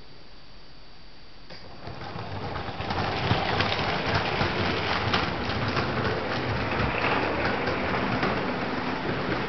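Toy LEGO train running on plastic track: a dense rattling clatter of wheels and carriages builds up about two seconds in as it approaches, then stays loud.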